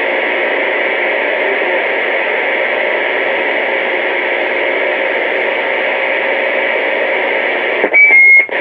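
Radio receiver static: a steady hiss over the open channel. Near the end it is broken by a short, louder stretch carrying a brief high electronic beep.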